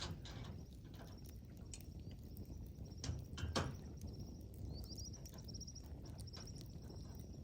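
Wood campfire crackling with scattered sharp pops, the two loudest about three seconds in, over a low steady rumble. A high, rapid chirping runs through the second half.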